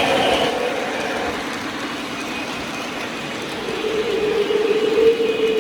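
Lionel O-scale Kansas City Southern model diesel locomotive running on its track, with its onboard engine sound and the train's rolling noise. A steady tone grows louder from a little past halfway.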